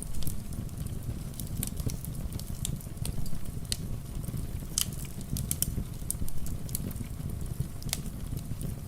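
Wood fire in a fireplace crackling, with irregular sharp pops several times a second, over a steady bed of rain.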